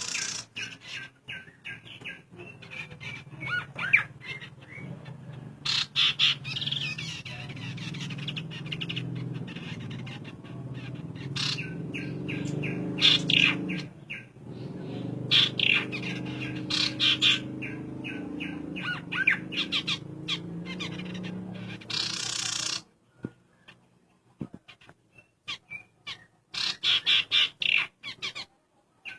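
A male and female ciung-air (tit-babblers) calling, with rapid trains of short notes and brief whistled glides repeated again and again. A low steady hum sits underneath and cuts off suddenly about three-quarters of the way through.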